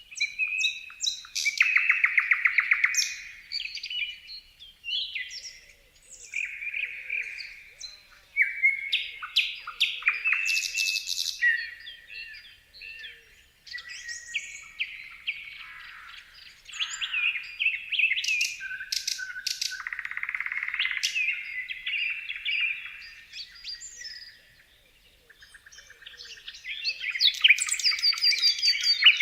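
Birds chirping and singing: a string of varied high-pitched calls, quick trills and rapid rattling phrases, coming in bursts with brief pauses between them.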